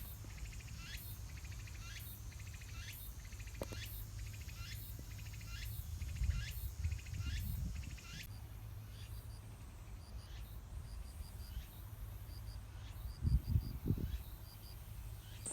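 Repeated high chirping calls: falling chirps about once a second for the first half, then short high pips in twos and threes, over a low rumble of wind.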